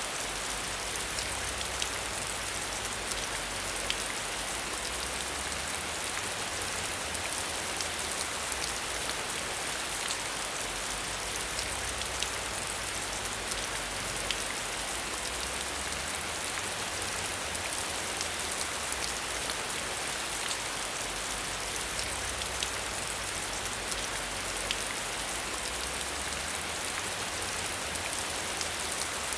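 Steady rain with scattered drops ticking, heard from behind a window.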